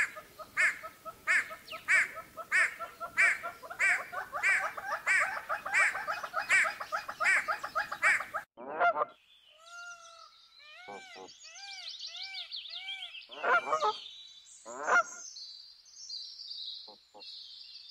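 Great hornbills calling: a steady run of loud, repeated calls, about three every two seconds, that stops abruptly about eight seconds in. After that come quieter, varied bird calls with arched and gliding notes.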